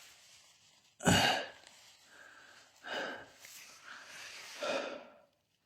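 A person's breath close to the microphone: a loud, sharp exhale about a second in, then softer breaths around three seconds and near the end.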